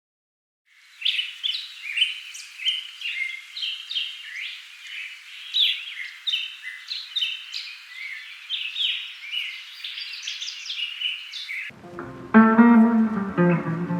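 Birds chirping and singing in a quick, busy run of short calls and whistles, cutting off abruptly near the end. Guitar music starts right after.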